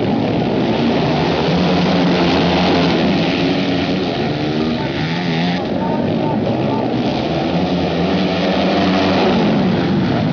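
Several flat track racing motorcycle engines running hard together, their pitches rising and falling as the bikes rev through the turns and straights.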